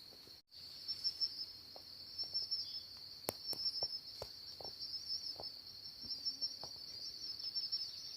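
Steady high-pitched drone of insects, with a few faint scattered ticks.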